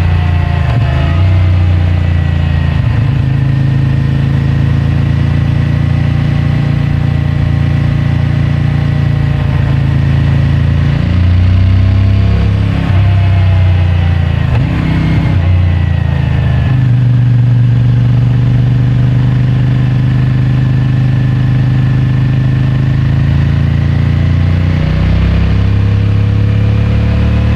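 CFMOTO 450MT's parallel-twin engine through its stock exhaust, running under way. The engine note climbs and drops several times as the bike accelerates and the revs fall back, with sudden changes in pitch near the middle and again near the end.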